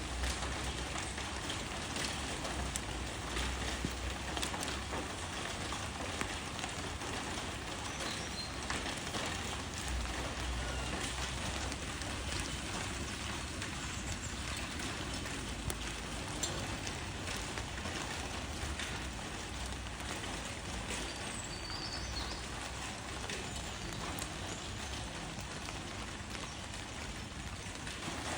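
Steady rain falling on leaves: a dense, even hiss with many small drop ticks scattered through it. A low rumble comes and goes underneath.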